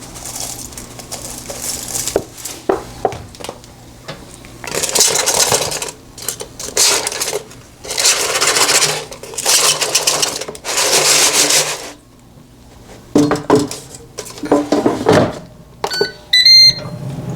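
Kitchen handling sounds: four bursts of rustling or shaking noise, each a second or two long, then a few knocks and clatters. Near the end comes a quick run of short electronic beeps.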